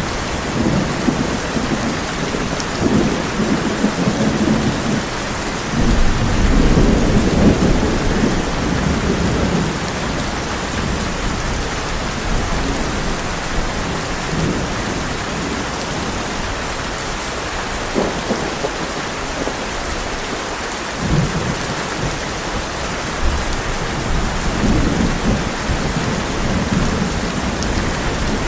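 Heavy rain drumming on a tin roof in a steady hiss, with thunder rolling in low rumbles several times, the strongest a few seconds in.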